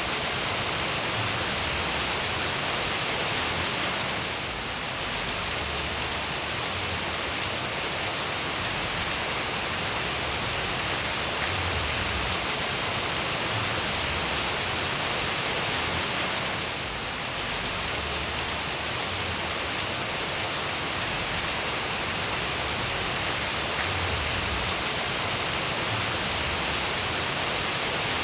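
Steady rain falling, an even hiss strongest in the high range, that dips slightly in level twice.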